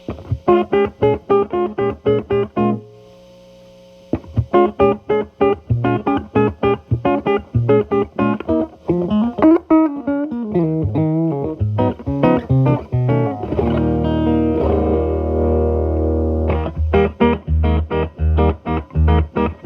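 Electric guitar (Telecaster) played through an MI Audio Crunch Box distortion pedal at minimum gain into a Marshall Valvestate amp's clean channel, giving a light crunch. Quick picked notes break off briefly about three seconds in, then resume. A sliding run comes around ten seconds in, a held chord rings out around fourteen seconds, and choppy rhythmic picking follows.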